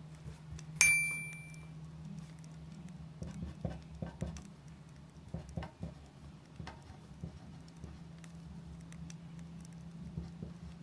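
A glass wind chime (furin) rings once, clear and high, about a second in and fades over about a second. Scattered light clicks and taps follow over a low steady hum.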